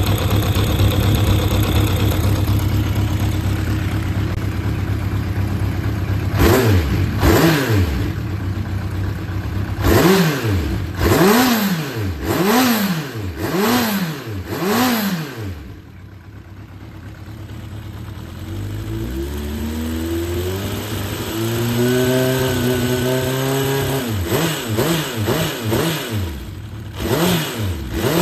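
Honda CB750F (RC04) air-cooled inline-four engine idling, then blipped repeatedly, each rev rising and falling back. It goes quieter near the middle and then runs on steadily, with more throttle blips near the end. The seller describes it as running well with no abnormal noise.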